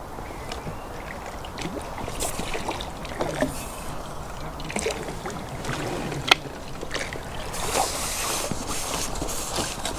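Water sloshing and splashing at the bankside, with scattered clicks and knocks of fishing tackle being handled and one sharp click about six seconds in.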